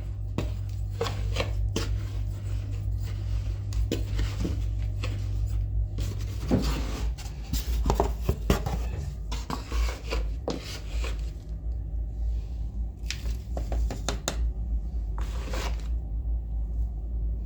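Irregular clicks, knocks and rubbing of things being handled, busiest around the middle, over a steady low hum.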